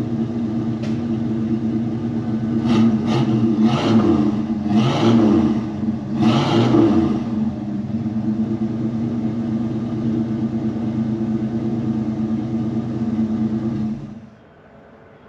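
1984 Ford F250's 460 big-block V8 idling, its throttle blipped in about four short revs, then settling back to a steady idle before being switched off about 14 seconds in.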